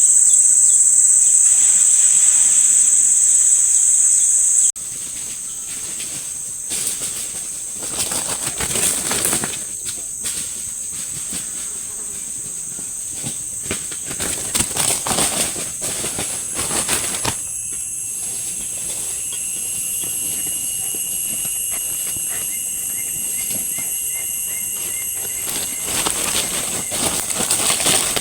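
Night-time forest insect chorus: a steady, high-pitched buzzing trill, loud at first and dropping abruptly about five seconds in, with a second, lower insect tone joining partway through. Every few seconds a louder rush of noise sweeps over it.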